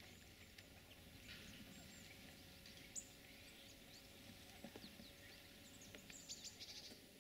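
Quiet outdoor ambience with faint, high chirps of small birds, coming in a quick run near the end, and a single click about three seconds in.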